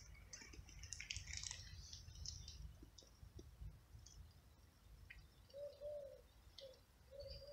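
Faint bird calls: scattered high chirps in the first couple of seconds, then a run of short, repeated low cooing notes over the last two seconds, above a faint low rumble.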